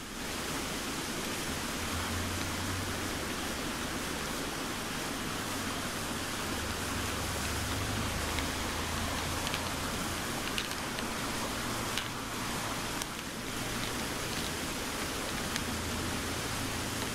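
Steady heavy rain falling: a constant hiss with scattered faint drop ticks.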